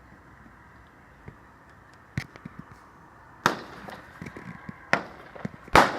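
Fireworks going off: a run of sharp bangs beginning about two seconds in, the loudest near the end, with smaller pops and crackling between them.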